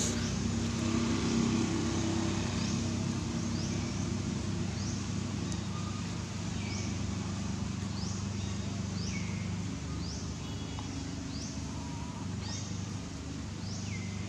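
Steady low hum of a running vehicle engine, with a short high rising chirp repeating about once a second.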